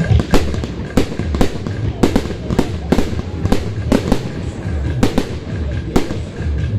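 Fireworks shells bursting in quick succession, sharp bangs two or three a second, over music with a steady low beat.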